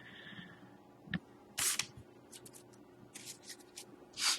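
Hockey trading cards being handled and flipped: a few brief sliding, brushing sounds of card stock against card stock, with faint ticks in between.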